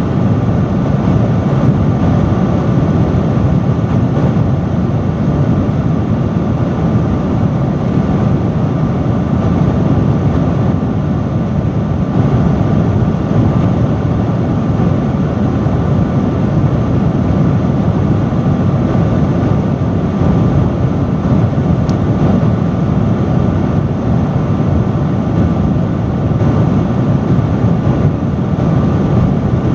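Loud industrial fan running steadily: constant rushing airflow, heaviest in the low range, with a faint steady hum on top.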